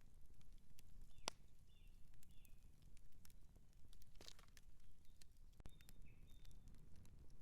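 Outdoor wood campfire crackling, with sharp pops at irregular intervals over a low steady rumble. A few faint short high chirps come in twice, about a second in and again near six seconds.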